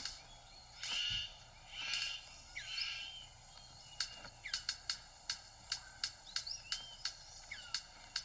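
Male superb bird of paradise displaying to a female: three harsh calls, then a run of sharp clicks at roughly two a second. Thin rising and falling bird whistles sound underneath.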